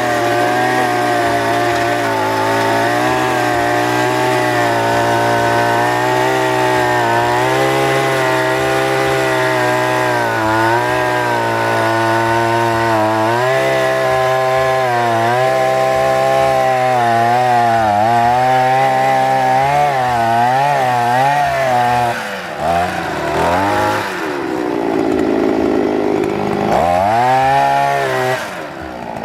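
Planting-hole digger (motorised earth auger) engine running steadily at high throttle, its pitch wavering a little. Near the end the engine note drops and picks back up twice.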